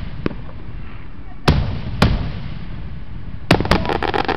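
Aerial firework shells bursting overhead: sharp booms about a second and a half in and again half a second later, then, from about three and a half seconds in, a quick run of many crackling reports.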